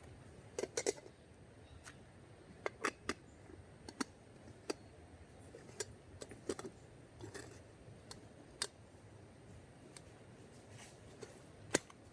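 Dogs eating dry food: sharp, irregular crunches and clicks of kibble being chewed, a few at a time with short pauses between.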